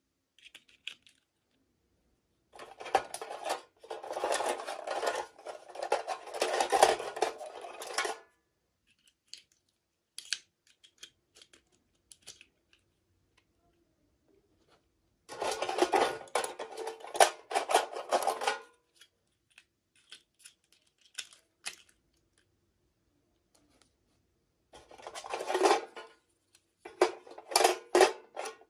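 Toy packaging being opened and handled by hand: three spells of crinkling and rustling with many small clicks, separated by quiet stretches with a few scattered ticks.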